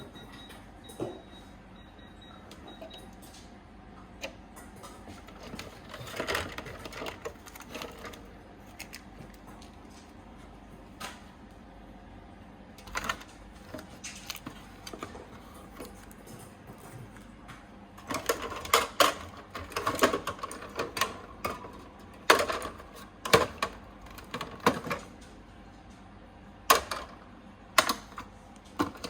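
Food containers and packets being handled while a fridge and freezer are sorted: scattered clicks and knocks with bursts of plastic rustling and clatter, coming thicker in the last ten seconds.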